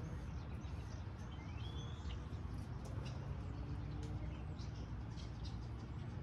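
Birds chirping outdoors: scattered short high chirps and a rising whistled note about a second and a half in, over a steady low background rumble.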